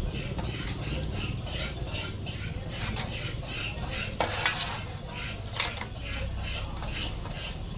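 Irregular metallic clinks and scrapes of brake servo parts and tools being handled, over a low steady rumble.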